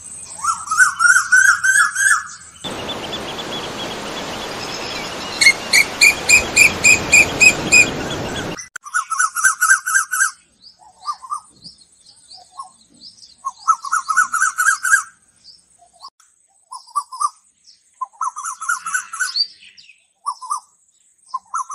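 Birds singing in repeated short warbled phrases, each about a second long, with sharp high cheeps between them. From about three to eight and a half seconds in, a steady rushing hiss runs under the song, starting and stopping abruptly.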